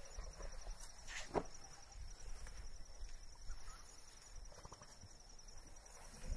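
Faint outdoor ambience with a steady, high, evenly pulsing insect trill and a few small chirps. One sharp click comes about a second and a half in.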